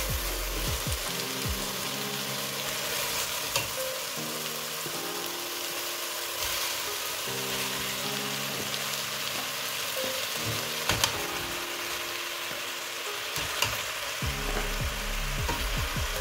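Oxtail and vegetables frying in a stainless steel pot, a steady sizzle. A knife knocks against the pot a few times as the meat is turned.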